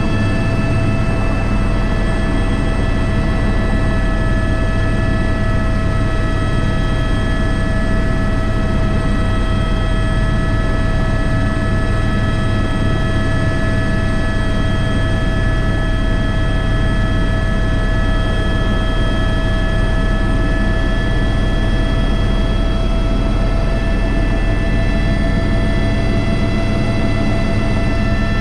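Airbus H125 helicopter heard from the cockpit in steady flight: a constant turbine whine of several fixed high tones over the low drone of the rotor, holding level throughout.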